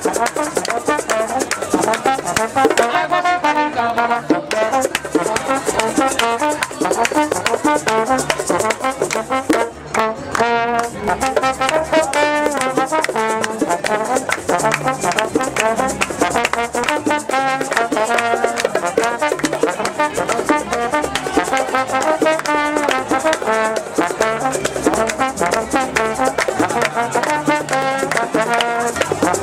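Brass band music: trumpets and trombones playing a lively tune over a steady beat, with a brief drop around ten seconds in.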